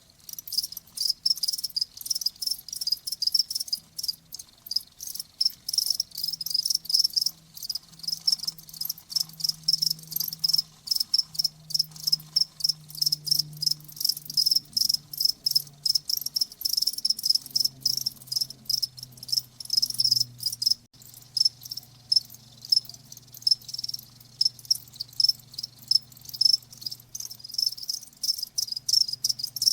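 Crickets chirping: dense, rapid high-pitched pulses, repeating with short irregular breaks.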